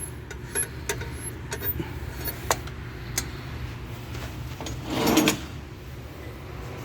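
Scattered light clicks and knocks of tools and parts being handled, with a short louder rasp about five seconds in, over a steady low hum.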